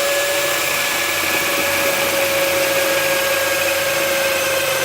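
Electric hand drill running at a steady high speed as its bit bores into a rosewood slab, a constant motor whine with cutting noise underneath.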